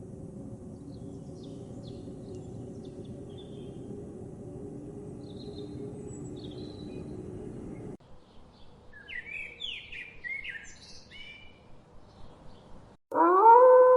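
Small birds chirping over a steady low background noise. Then come several seconds of louder, clearer bird chirps and trills. About a second before the end a loud howl begins, rising in pitch and then holding.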